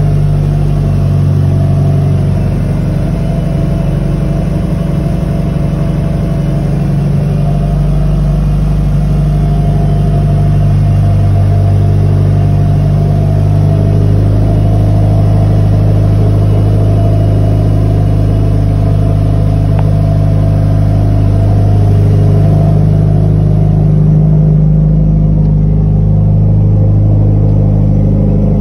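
Mitsubishi Lancer Evo 7's turbocharged 2.0-litre four-cylinder (4G63) idling steadily at an even pitch, warming up after a cold start.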